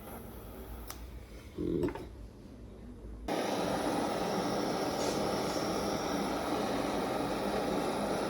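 A steady rushing roar, like a soldering torch's flame, starts abruptly about three seconds in, after a quieter stretch with a low hum and a brief knock near two seconds.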